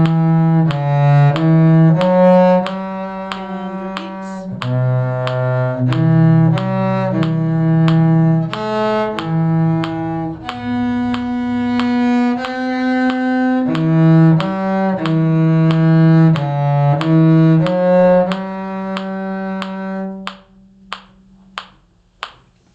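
Bowed string parts in violin, viola and cello ranges playing a tune together in harmony. Most notes are short and separate, about two a second, with a few held longer. The playing stops about 20 seconds in, and a few light clicks follow.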